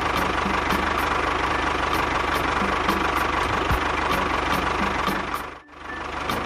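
Engine running steadily with a light regular ticking, about four a second; the sound drops out for a moment near the end, then carries on.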